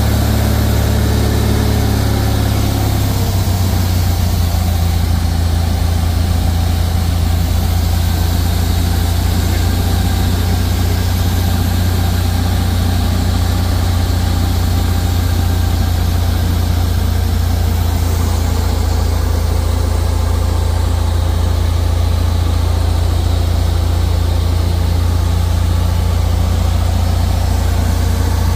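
Cessna 172's piston engine and propeller droning steadily, heard from inside the cabin. The engine note changes once, about three seconds in, then holds steady.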